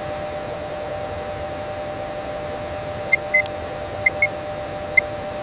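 Steady hiss with a low two-note hum underneath, and from about three seconds in, short high electronic beeps, several of them in quick pairs.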